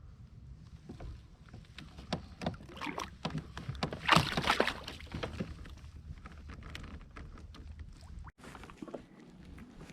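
Water splashing at a fishing kayak, with scattered knocks and clicks against the hull; the loudest splash comes about four seconds in.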